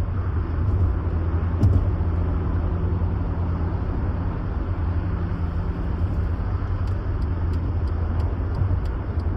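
Steady low drone of a car's engine and tyres on the road, heard from inside the cabin at highway speed, with a brief bump about two seconds in.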